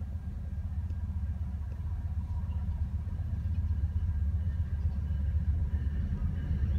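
Low rumble of an approaching train, growing steadily louder as it nears.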